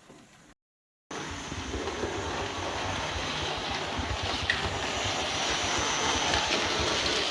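Model railway locomotive running along the track, a steady motor whirr with rapid low clatter from the wheels; it starts abruptly about a second in.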